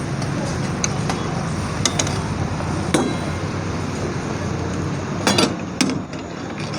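Several sharp metal knocks and clinks, a cluster of them near the end, over a steady hum of traffic and engine noise.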